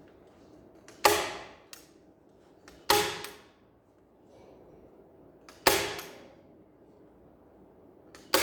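Pneumatic upholstery staple gun firing four times, about two seconds apart, each sharp shot followed by a short hiss of air.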